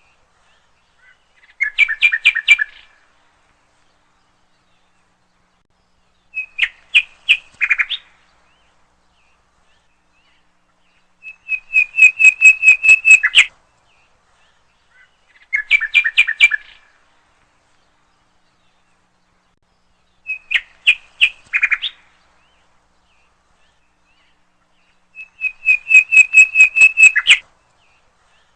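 A songbird singing, six short phrases of rapid repeated whistled notes, each lasting a second or two, with silent gaps of a few seconds between them.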